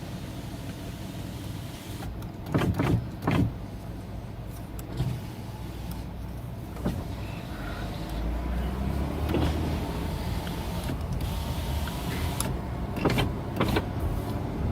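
Car cabin noise while driving: a steady low road and engine rumble that swells slightly partway through. Several sharp knocks or clicks come in a cluster of three a couple of seconds in and a pair near the end.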